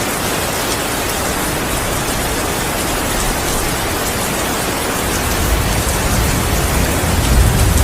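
Steady heavy rain falling, with a low thunder rumble building from about five seconds in and growing louder near the end.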